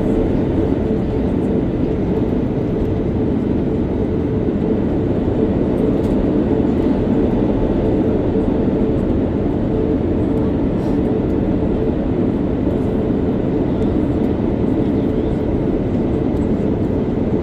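Steady cabin noise inside an Airbus A330-900neo in flight: a constant rumble of engines and airflow with a steady hum, unchanging throughout.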